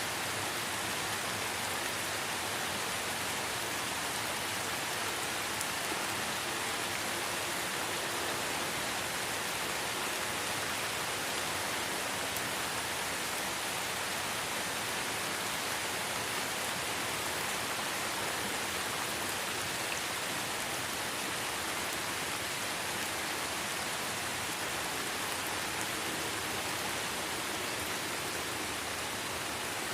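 Light rain falling steadily in a forest, an even hiss of drops with no change in level.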